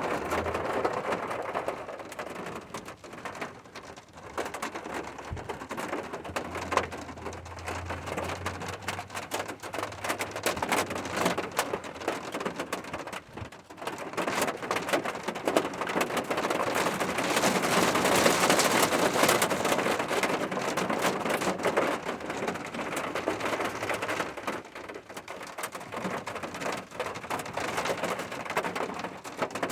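Steady rain falling, a dense patter of drops that grows heavier for a while past the middle before easing. A faint low rumble sits under it for a few seconds early on.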